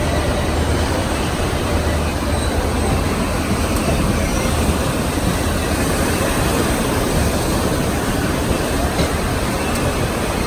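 Passenger train running, a steady rumble and rail noise heard from aboard; a deep low hum under it fades about halfway through.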